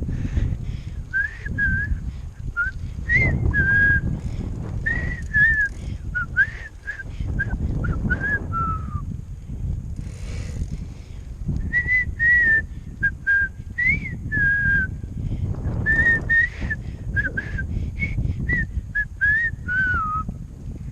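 A person whistling a tune in two phrases of short notes, with a break in the middle, over a low rumble of wind on the microphone.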